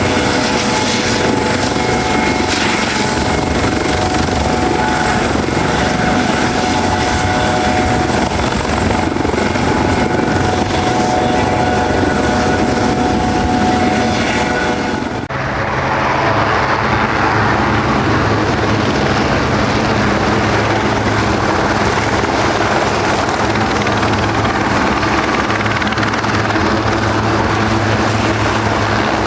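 Helicopter running close by, its engine and rotor making a steady loud drone with whining tones. About halfway through, the sound changes abruptly to a different engine and rotor sound with a deeper low drone and a thin high whine.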